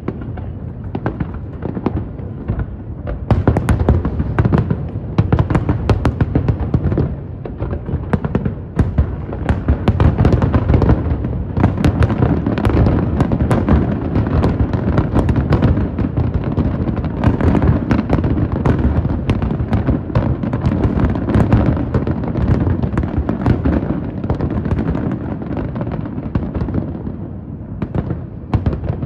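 Fireworks display: a dense, non-stop barrage of shell bursts, many bangs every second over a constant low rumble, thinning slightly near the end.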